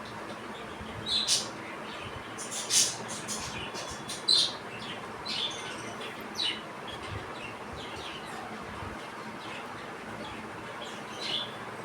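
Young budgerigars chirping: several short, high chirps in the first half, then only one more near the end.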